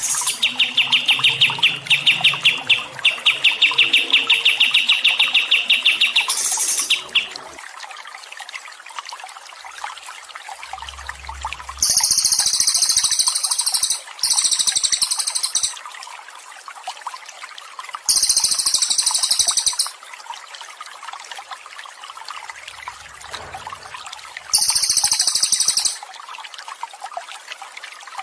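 Songbird song from a bird-training recording: a rapid trill of repeated notes for the first seven seconds, then four short, very high buzzy song phrases spaced a few seconds apart. Water trickles faintly underneath.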